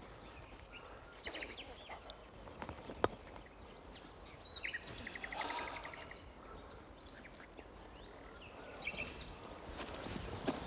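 Small songbirds chirping, with a couple of quick rattling trills, over a faint steady outdoor hiss. A single sharp click about three seconds in.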